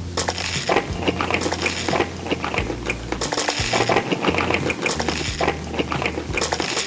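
Cutlery clinking and scraping against dishes while desserts are eaten, a rapid run of small sharp clinks.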